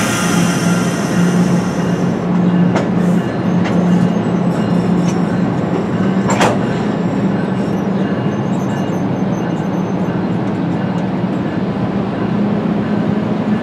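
A train rolling past: a steady low drone from the locomotive with scattered sharp wheel clicks, the strongest about six seconds in.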